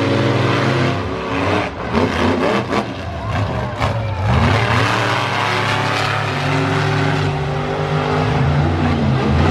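Monster truck engine revving hard, its pitch rising and falling, with a cluster of sharp bangs about two to four seconds in, then running at steadier high revs.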